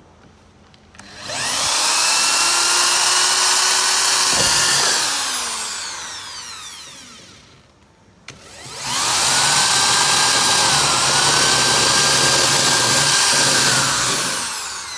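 Electric drill drilling out rivets in a caravan's alloy panels. It makes two long, loud runs with a high squeal that sounds like braking noises. Each time the pitch rises as the drill bites and spins up, then falls away as it winds down.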